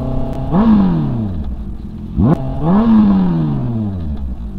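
Honda CB650R's inline-four engine revved in two quick throttle blips while riding, each rising sharply and then dying away in a long falling note.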